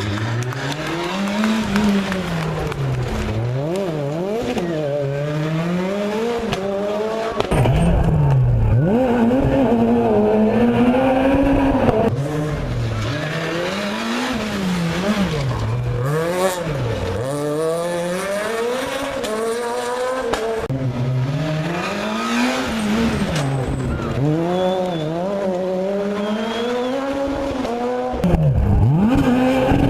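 Rally cars' engines revving hard and changing gear, the pitch climbing and dropping again and again, as one car after another passes on the stage, with some tyre squeal.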